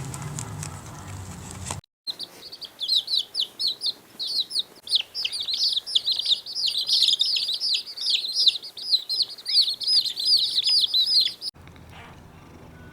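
Many small birds chirping densely and loudly, a rapid overlapping stream of short high notes that each slide downward. The chirping starts abruptly about two seconds in, after a low, steady sound is cut off, and it stops suddenly about a second before the end.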